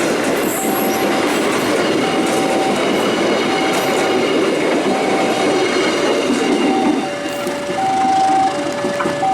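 Loud rumble of a passenger train going by on the rails, easing off after about seven seconds. Through it an electronic warning tone beeps about once a second, and near the end it switches to a two-tone alternation.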